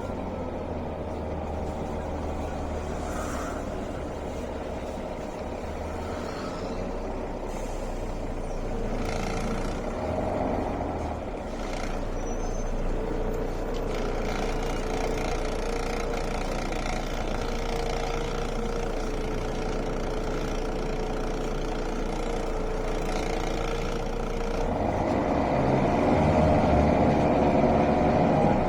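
Mercedes-Benz O405 city bus under way, heard from inside the passenger cabin: its diesel engine and drivetrain run steadily with a faint steady whine in the middle, and the engine grows louder near the end as the bus pulls harder.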